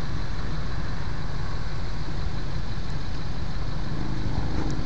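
Steady low rumble with a faint hiss over it, unchanging and with no distinct events.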